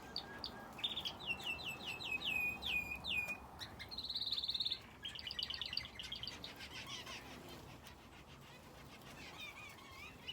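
Aviary finches and a canary singing and chirping: a run of quick repeated falling notes, a short buzzy trill about four seconds in, then more twittering that grows fainter toward the end.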